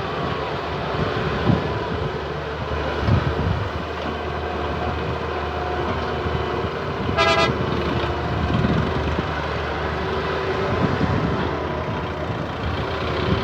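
Excavator and tractor diesel engines running steadily during soil loading, with irregular low thumps. A vehicle horn toots once, briefly, about seven seconds in.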